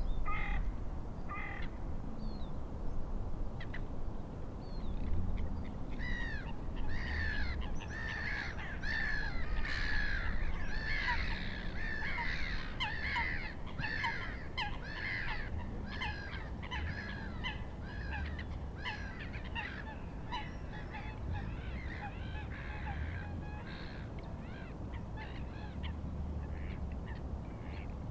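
A flock of birds calling over and over, many harsh calls overlapping, thickest around the middle and thinning toward the end, over a steady low rumble of wind and water.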